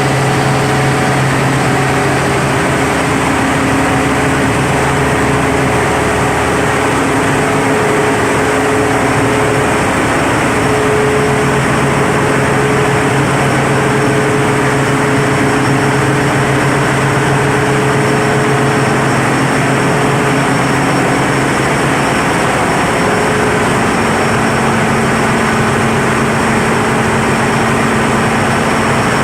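Mitsubishi diesel generator sets running together during a synchronisation test: a loud, steady engine drone with a few constant hums that shift slightly in pitch partway through.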